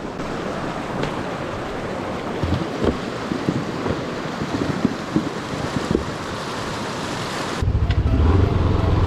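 Fast-flowing water rushing through a flooded road crossing, as a steady noise with scattered small knocks. About a second and a half before the end it cuts abruptly to a motorcycle engine running with a low, even pulse.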